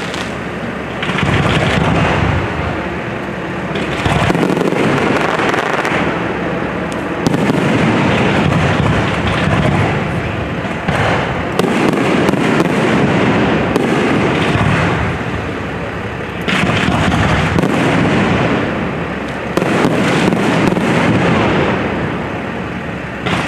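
Aerial fireworks exploding in quick succession, booms overlapping with crackling and popping, swelling in waves every few seconds.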